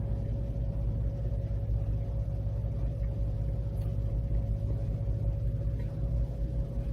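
A steady low rumble with a faint constant hum above it, which cuts off suddenly at the end.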